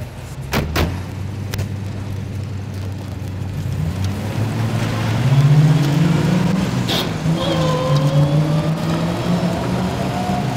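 A car engine running and pulling away, its pitch rising about four seconds in and then holding steady. A few sharp clicks sound in the first two seconds, and a louder one comes about seven seconds in.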